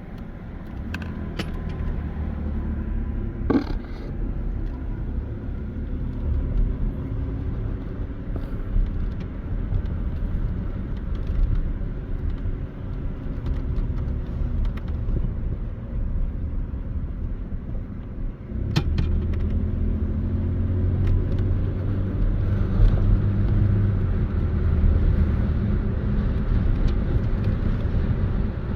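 Car driving, heard from inside the cabin: steady engine and road rumble with a few small rattles and clicks. About two-thirds of the way through the low rumble steps up and stays louder.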